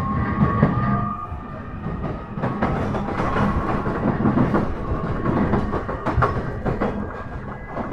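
E131 series 1000 subseries electric commuter train running, heard from inside the car: a steady rumble with a thin motor whine, and the wheels clicking over rail joints.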